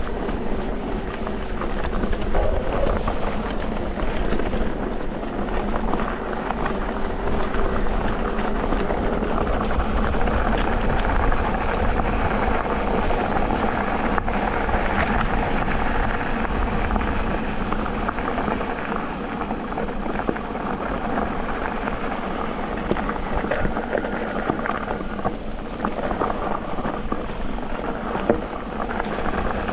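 Steady riding noise from an electric mountain bike on a dirt trail: tyres rolling over the ground, with many small ticks and rattles from the bike.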